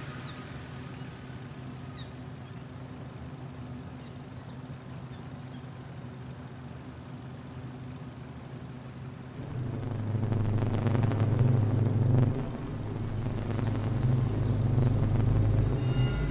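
Car engine idling steadily. About nine and a half seconds in, a louder low hum comes in and holds.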